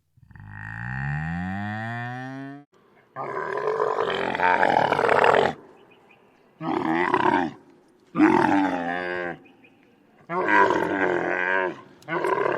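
A cow's long moo that rises in pitch, followed by a big cat roaring: a series of five rough, growling roars, each one to two seconds long.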